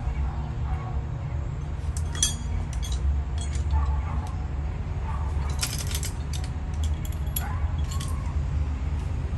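Light metallic clinks and rattles of hand tools or chain being handled, a few separate clusters, over a steady low hum.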